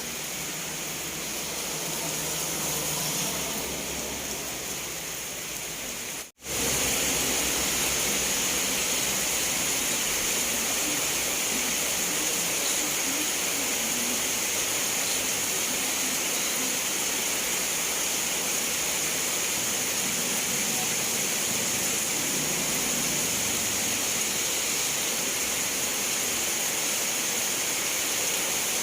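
Steady rain, an even hiss of falling water. About six seconds in it drops out for an instant and comes back slightly louder and brighter. Before that break a low hum runs underneath.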